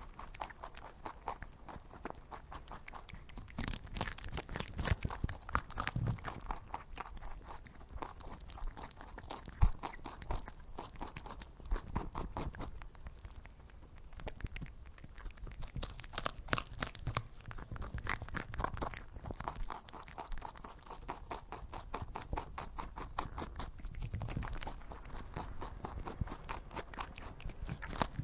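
An animal chewing and crunching food: a steady, irregular run of crisp crunches.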